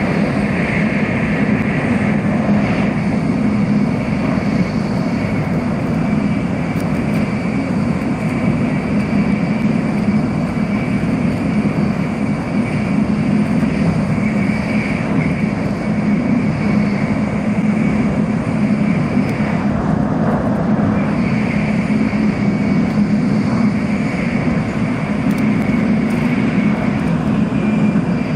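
Steady running noise of a Shinkansen bullet train at speed, heard from inside the passenger cabin: an even low rumble with a faint steady high whine over it.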